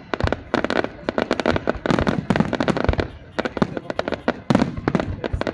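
Fireworks going off in rapid volleys: many sharp bangs and cracks in quick succession, easing off briefly a little past halfway before a fresh flurry.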